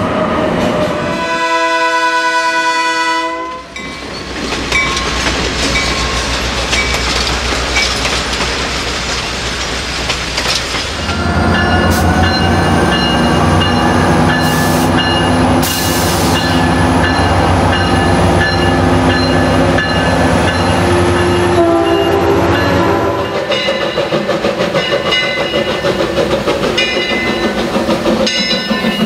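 A run of different trains. First a Boston Green Line light-rail car pulls out, with a brief held multi-note tone and then a steady wheel rumble. From about 11 s a Metrolink diesel locomotive passes, its engine droning under a rising whine. Near the end a small vintage steam locomotive passes, its exhaust beating in an even rhythm.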